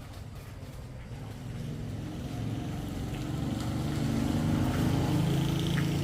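A small engine running steadily and growing louder over the first few seconds, as a vehicle drawing nearer.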